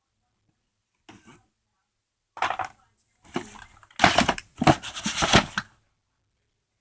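Cardboard packaging being torn and crushed by hand: a short rustle, then crackling bursts that grow louder, the loudest about four to six seconds in.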